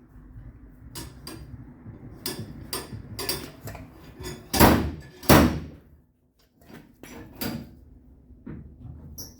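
Irregular knocks and taps of a hammer working the sheet-metal quarter panel against a dolly, with two louder blows about halfway through.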